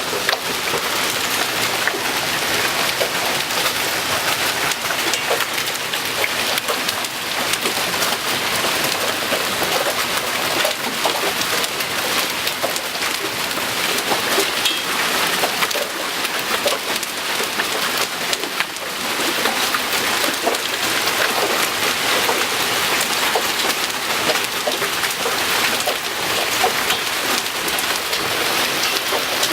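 Hailstones pelting down in a storm: a dense, steady clatter of countless small impacts over the hiss of falling ice and rain.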